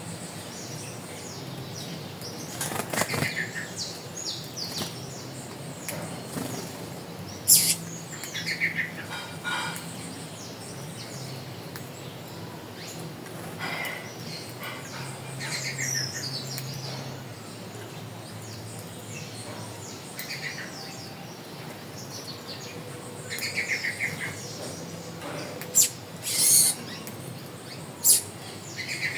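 Wild birds calling: a short call repeated every few seconds among other chirps, broken by a few brief, loud, sharp sounds.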